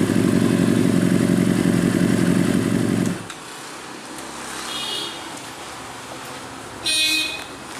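Benelli TNT 600i's 600 cc inline-four running steadily through an IXIL X55 slip-on exhaust, then stopping abruptly about three seconds in. A short high-pitched sound follows, loudest near the end.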